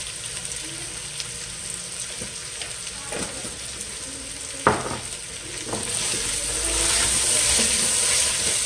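Potatoes and onion frying in oil in a pot, a steady sizzle. A single sharp knock comes about halfway through, and the sizzling grows louder in the last few seconds as the pot is stirred with a spoon.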